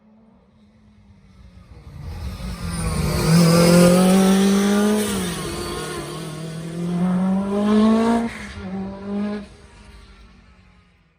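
Rally car engine approaching and passing at full throttle. The revs climb, drop back about five seconds in, climb again, then cut off sharply near the eighth second, with one more short blip before the car fades into the distance.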